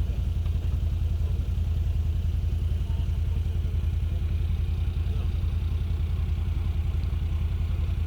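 Off-road vehicle engine running steadily, with an even, low, rapidly pulsing sound and no change in pace.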